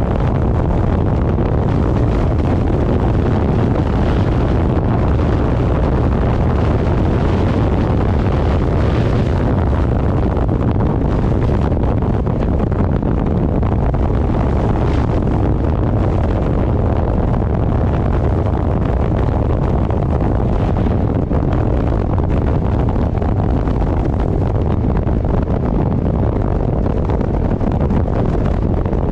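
Heavy, steady wind rush buffeting the microphone on a moving motorcycle, with the bike's running engine buried beneath it.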